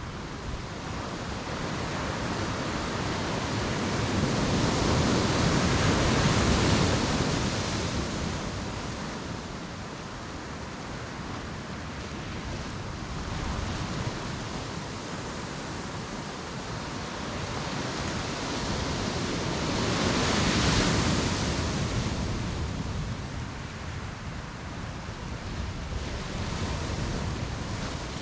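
Ocean waves breaking and washing up a beach. The surf swells to a loud crash about six seconds in and again about twenty seconds in, with smaller waves between.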